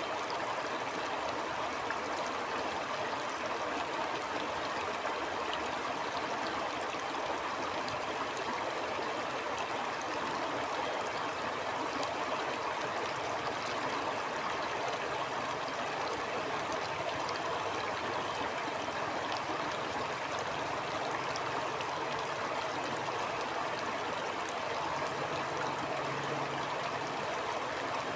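Stream water flowing over rocks, a steady rushing and splashing with no breaks or changes.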